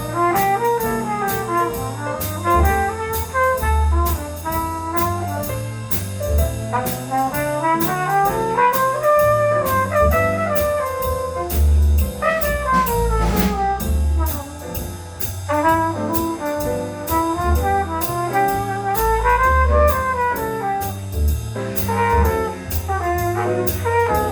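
Instrumental jazz: horns play a melody that rises and falls over a bass line and a steady cymbal beat.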